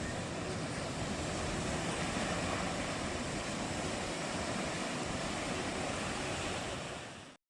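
Sea surf breaking on the beach with wind on the microphone, an even steady rush; it fades out and drops to silence just before the end.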